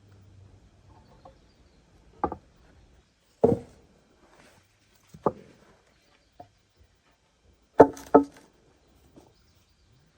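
Sharp knocks or chops on wood, about six strikes spaced irregularly, each with a short hollow ring. The last two come close together, about a third of a second apart.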